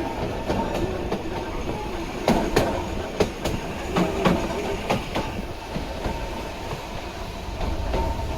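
A 762 mm narrow-gauge electric train running along the track, with a steady rumble and a faint steady tone underneath. The wheels clack sharply over rail joints, a dozen or so irregular knocks, most of them in the middle of the stretch.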